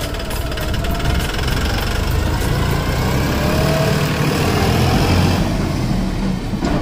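Force Sanman 6000 tractor's three-cylinder diesel engine running steadily, picking up revs a little midway.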